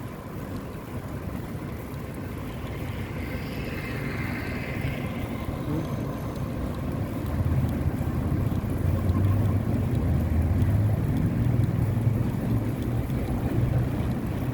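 Wind buffeting the microphone during a bike ride, a low rumble that grows louder about halfway through.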